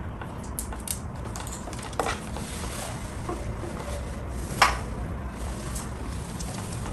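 Scattered clinks and knocks of dishes and utensils being handled during kitchen food prep, the loudest about four and a half seconds in, over a steady low hum.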